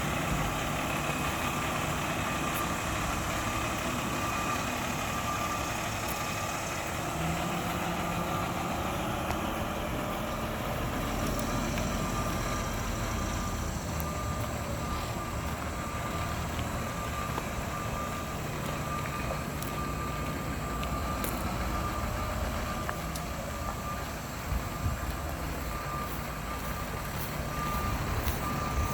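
Mack LR garbage truck's diesel engine running, with its backup alarm beeping over and over as the truck reverses.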